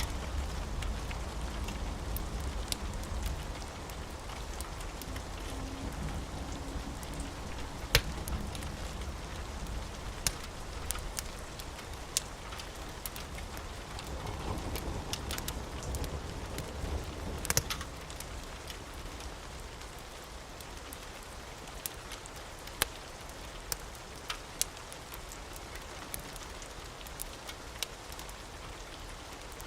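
Steady rain with the sharp, irregular crackles and pops of a burning wood fire scattered through it. A low rumble fades away over the first few seconds.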